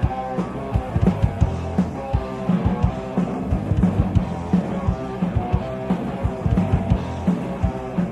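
Live heavy rock band playing an instrumental passage: distorted electric guitar and bass over a drum kit keeping a steady beat, no vocals.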